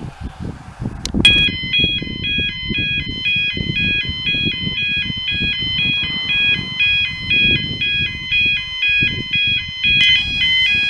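A tune of short electronic beeps on several pitches sets in abruptly about a second in and repeats over a low rumble.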